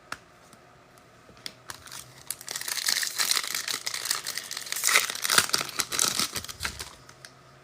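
Trading card pack wrapper being torn open and crinkled. It starts about two seconds in as a dense crackle and dies away near the end.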